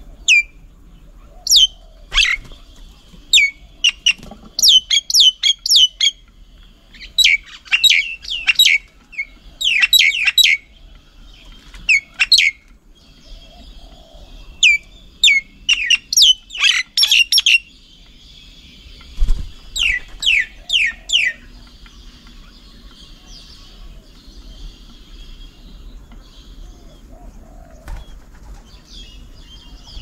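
Small birds calling: many short, sharp chirps that sweep downward in pitch, in quick clusters through the first two-thirds, with a faint steady high buzz underneath. There is one dull thump about two-thirds of the way through.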